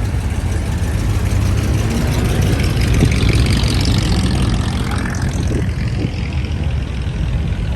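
Steady low engine rumble, with a louder hiss that swells about three seconds in and fades by about five seconds.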